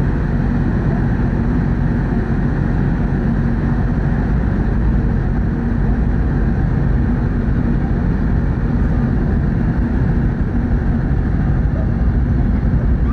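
Steady low drone of the car ferry Kuniga under way: engine and hull noise heard aboard, unchanging throughout.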